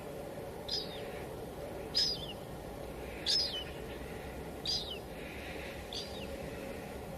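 A bird repeating a short, high call that drops at the end, five times about every 1.3 seconds, over a steady hiss of light drizzle.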